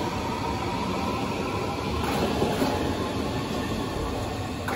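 Berlin S-Bahn electric train running along the platform and pulling away, a steady noise of wheels on rail and traction motors that eases slightly near the end.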